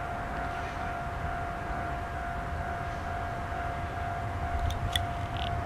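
Enshu Railway electric train pulling away from a station, its low running rumble growing near the end, under a steady high tone that lasts throughout. A couple of sharp clicks come about five seconds in.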